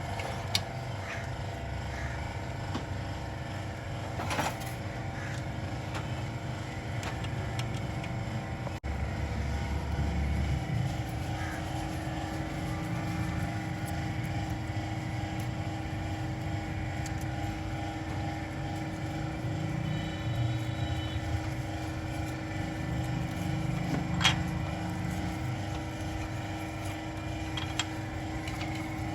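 A steady mechanical hum holding a constant tone, from an engine or machine running in the workshop, with a few sharp metallic clinks of tools on parts; the loudest clink comes near the end.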